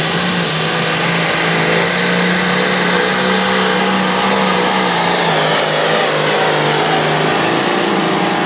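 Turbocharged diesel pulling tractor running flat out under heavy load as it drags a weight-transfer sled, the engine held at high revs and dipping slightly near the end as the load builds.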